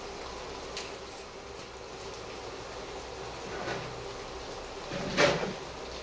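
Sardine and onion mixture sizzling gently in a non-stick wok, with a faint steady hum. There is a light click about a second in and a short, louder clatter about five seconds in.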